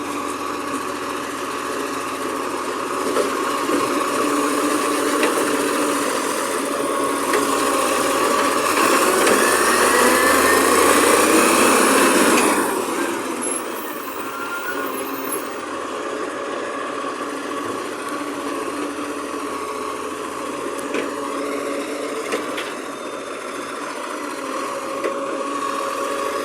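Garbage truck engine running steadily, then revving up with a rising whine from about seven seconds in. The noise cuts off sharply at about twelve seconds, and the engine settles back to a steady run.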